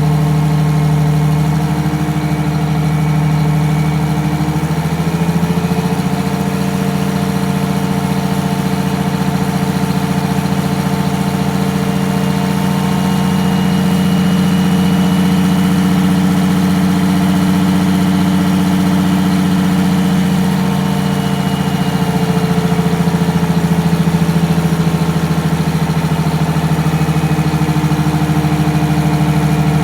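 Detroit Diesel 6V92TA two-stroke V6 diesel idling steadily just after a cold start. Its pitch steps up slightly about five seconds in and settles back down about twenty-two seconds in.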